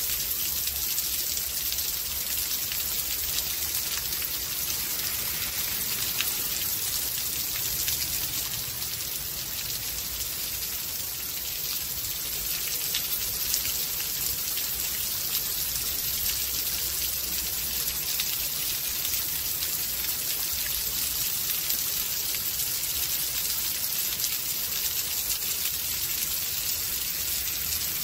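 Steady rain falling in a storm, an even hiss of rain with many individual drops ticking, and a low rumble underneath.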